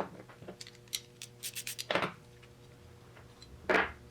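Small parts being handled at a workbench: three short scraping strokes about two seconds apart, with light clicks and ticks between them, over a steady electrical hum.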